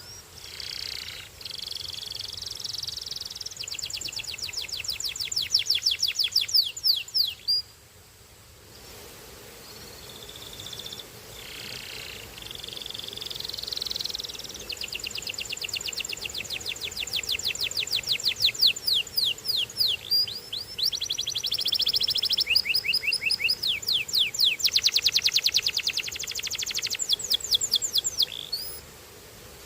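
Canary singing two long song bouts made of fast trills of repeated falling notes, with a short pause about eight seconds in.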